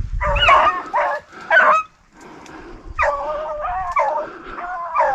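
Beagles baying and yipping while running a rabbit: several short cries, then a longer drawn-out bay about three seconds in.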